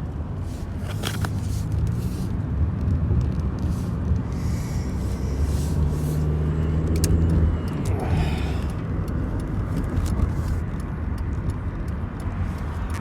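Car engine and road noise rumbling inside the cabin while driving, with a steady low hum that eases off about eight seconds in.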